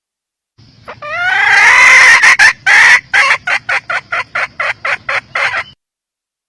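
Red junglefowl hen calling: a drawn-out rising call, then a run of short, quick clucks, about four a second.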